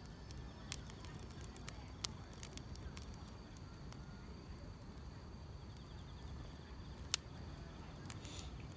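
Wood fire crackling, with scattered sharp pops (the loudest about seven seconds in) over a steady low rumble, while grass insects chirp faintly.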